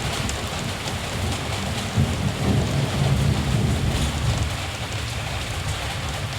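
Steady rain falling with scattered drop ticks, and a low rumble of distant thunder that swells about two seconds in and dies away over the next couple of seconds.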